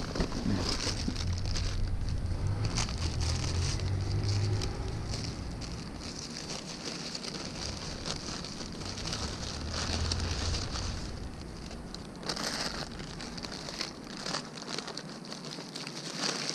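Small engine of a motorized bicycle running, its hum rising and falling and dying away near the end, under constant crackling noise on the microphone.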